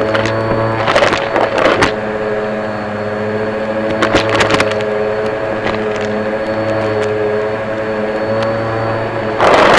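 Vacmaster vacuum cleaner running steadily, its motor giving a constant multi-toned hum and whine, with a few short bursts of rattling clicks scattered through.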